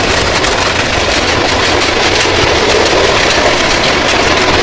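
Long freight train rolling past: a steady, loud rumble and rattle of its wagons on the rails.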